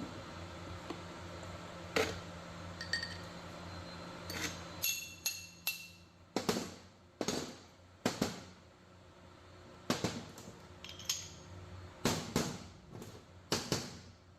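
Metal tools and parts clinking and knocking against each other on a machine-shop setup, about a dozen sharp hits, some ringing briefly. A low machine hum runs underneath and weakens about halfway through.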